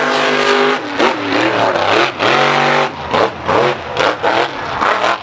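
Mega mud truck's engine revving: held at a steady pitch, then blipped up and down several times.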